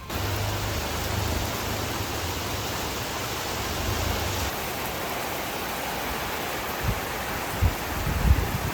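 Heavy rain pouring down: a steady, loud hiss that starts abruptly, with a few low thumps near the end.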